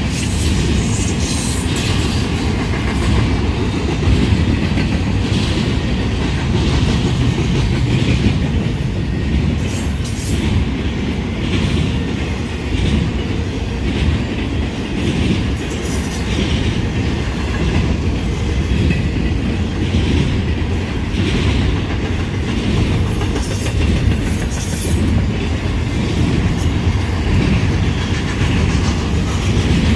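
Freight train cars rolling past, steel wheels clacking over rail joints in an uneven rhythm under a steady rumble.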